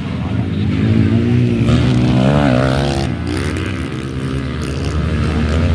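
Motocross bike engines revving, the pitch rising and falling as the riders work the throttle, loudest in the middle.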